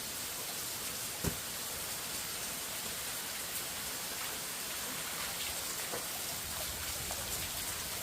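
Steady hiss of rain falling, with faint scattered drip ticks and one short dull knock about a second in.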